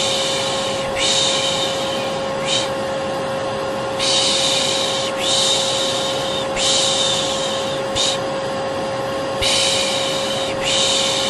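Vacuum cleaner motor running steadily with a constant hum, with a person's "shh" shushing over it, a soothing sound for babies. Long shushes of about a second come in groups, with a brief short shush and a pause between groups.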